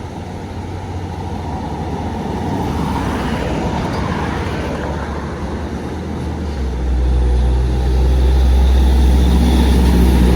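Road traffic: a vehicle passes early, then a heavy diesel truck engine comes in close, with a loud low rumble from about two-thirds of the way through.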